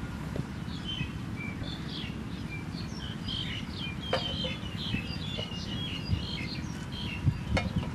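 Small birds chirping in a busy run of short high notes over a low steady rumble, with a couple of sharp knocks.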